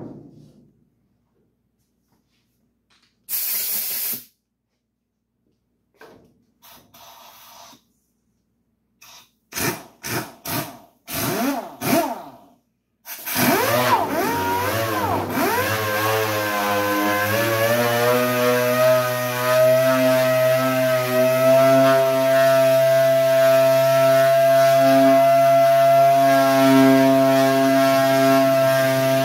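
Dual-action sander sanding the primered sheet-metal sides of a truck box: a short hiss, a few brief trigger blips whose pitch rises and falls, then from about halfway in it runs continuously with a whine that wavers at first and then holds steady.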